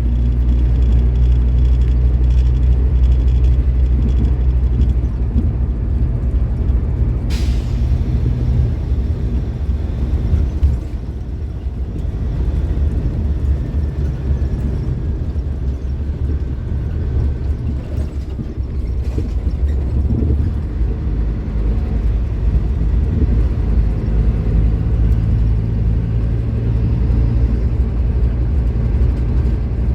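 Scania K310IB bus's nine-litre five-cylinder diesel engine running under load, easing off about eleven seconds in and pulling harder again from about twenty seconds. A short sharp hiss of air about seven seconds in.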